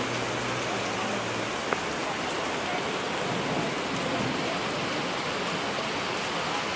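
Heavy rain falling steadily on a wet street and surfaces, with one sharp tap a little under two seconds in.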